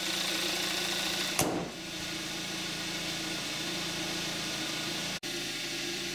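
2014 Kia Forte5's 2.0-litre gasoline direct-injection four-cylinder idling steadily, still warming up after a cold start. About a second and a half in there is a single thump as the hood is shut, and the engine sounds a little quieter after it.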